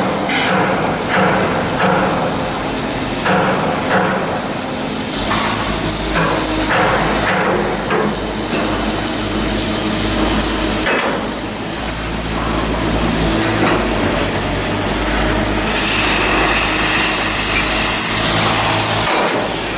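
Shipbuilding work noise: repeated hammer strikes, then a steady machine drone with a low hum from about five seconds in.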